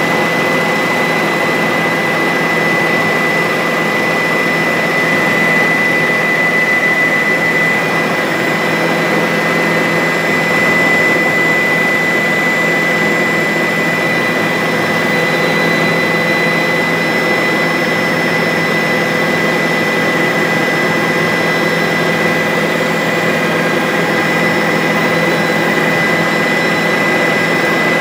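Bell 407 helicopter in flight, its turboshaft engine and rotors making a steady, loud noise with a constant high whine over it.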